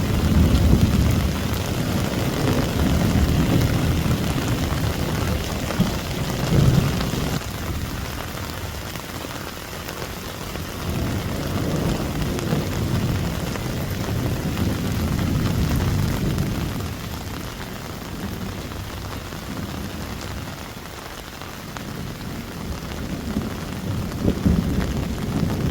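Heavy rain pouring down steadily, with low rumbles that swell and fade several times.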